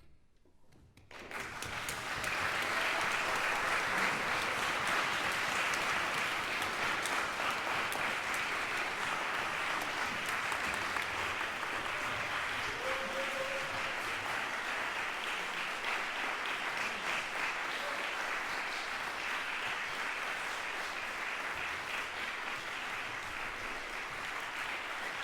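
Audience applause, breaking out about a second in and going on steadily.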